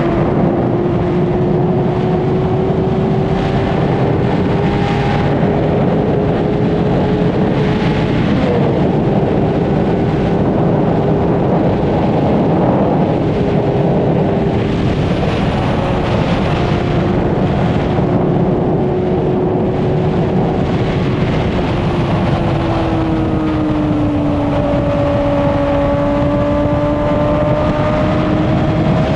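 Honda CBR600RR's inline-four engine pulling steadily at high revs at highway speed, under a constant rush of wind and road noise. The engine note sags a little about three-quarters of the way through, then climbs again near the end.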